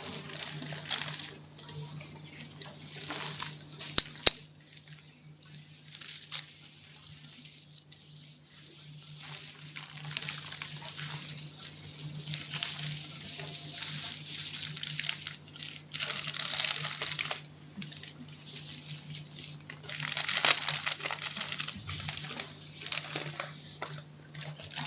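Chalk crunching close to the microphone in irregular crackly bursts, with a steady low hum underneath. Two sharp clicks come about four seconds in.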